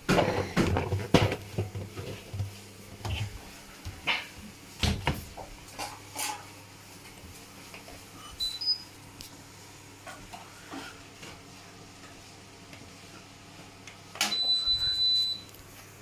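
Knocks and clatter from handling a front-loading washing machine's door and drum, then brief electronic beeps from its control panel about eight seconds in and one longer steady beep near the end.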